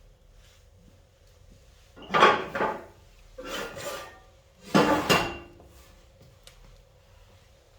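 Three short bursts of rough scraping and knocking, firewood and the metal wood stove being handled while a fire is laid.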